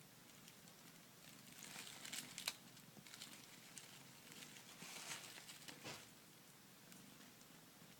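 A kitten scrabbling and scratching at a cardboard box: two bursts of dry scraping about a second and a half each, the first ending in a sharp click.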